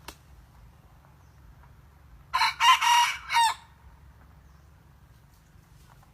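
A young decoy rooster, of the kind used to lure red junglefowl, crowing once: a short crow in three or four linked parts lasting just over a second, about two seconds in.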